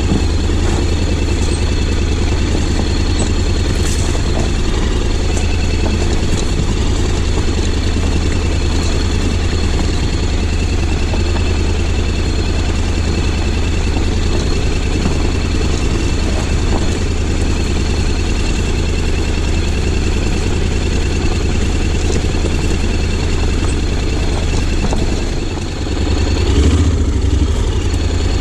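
Honda X-ADV 750's parallel-twin engine running steadily, with a brief drop in level about 25 seconds in followed by a short rise in revs.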